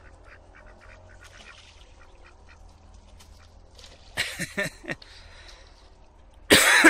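Ducks quacking: faint scattered bird calls, then a few loud harsh quacks about four seconds in and another loud bout near the end.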